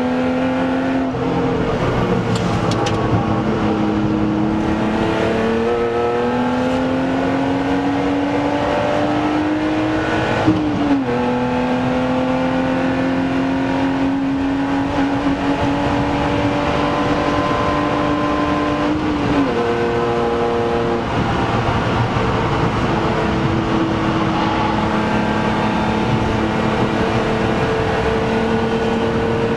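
BMW Z3 2.8 Coupé's 2.8-litre straight-six pulling hard at high speed, heard inside the cabin. The engine note climbs slowly with the revs and drops sharply several times, over steady road and wind noise.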